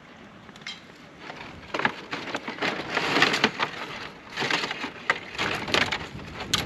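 Dry wood cracking and splintering, in irregular crunching bursts with a sharp snap near the end.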